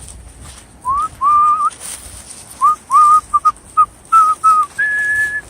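Whistling: a run of short notes that slide up and level off, some in quick pairs, ending on a longer, higher held note near the end.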